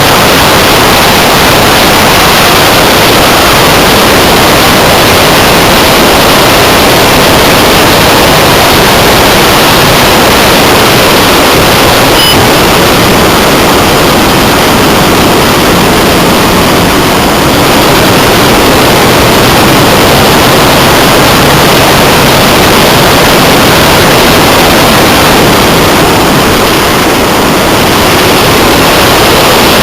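Loud, steady, distorted rush of airflow and motor noise on the onboard camera's microphone of a Multiplex Blizzard electric hotliner in flight.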